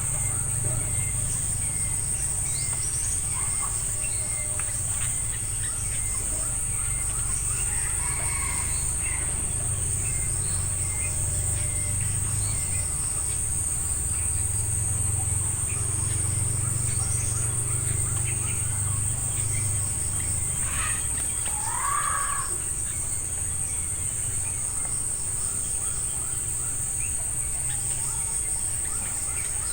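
Steady high-pitched drone of crickets or other insects, with scattered short bird chirps and one louder bird call about 21 seconds in, over a low steady rumble.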